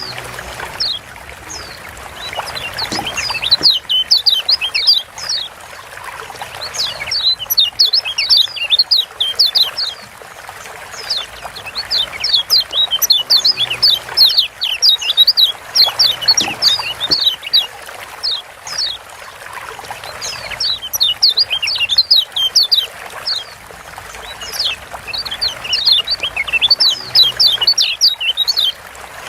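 A white-eye (kecial kuning) giving its sharp 'ciak' chirp calls in rapid runs, high downward-sweeping notes lasting a few seconds each, broken by short pauses, over a steady hiss.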